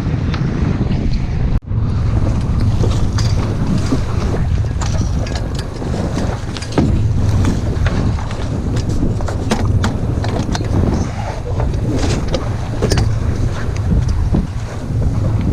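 Heavy wind buffeting the microphone aboard an Etchells keelboat under sail, over the rush of water, with scattered sharp clicks and taps. There is a brief dropout about a second and a half in.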